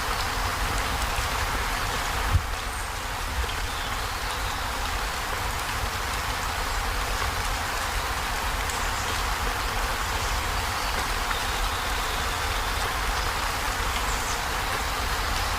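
Heavy rain drumming steadily on a corrugated zinc roof, with a low rumble under the hiss of the drops. There is a single sharp knock a little over two seconds in.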